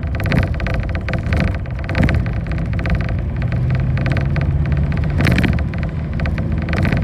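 A bus engine drones steadily while the bus is under way, heard from inside the cabin, with constant rattling and a couple of louder knocks from the bus body.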